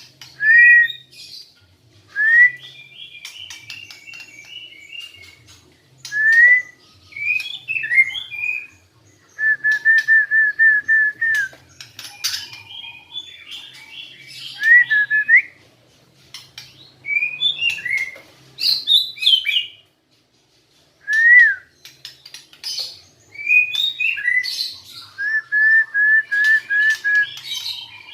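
White-rumped shama singing: varied whistled phrases with gliding notes, including two runs of rapid repeated notes, separated by short pauses. It is a wild-caught bird only beginning to sing after six months in care.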